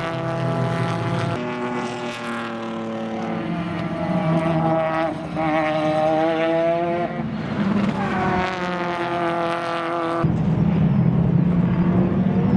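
Sports sedan race car engines at speed, their pitch rising and falling as the cars pass and change gear. The sound changes abruptly about a second and a half in and again near the end.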